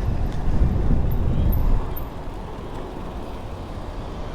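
Low rumbling outdoor noise, wind buffeting the microphone, louder for the first two seconds and then dropping off.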